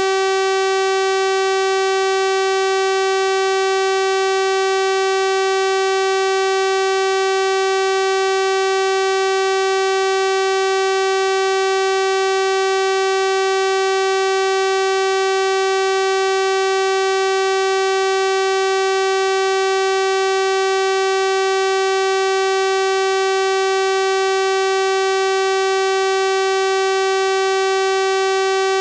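Steady synthesized 384 Hz sawtooth-wave tone, a constant buzzy pitch with a full series of harmonics, unchanging throughout.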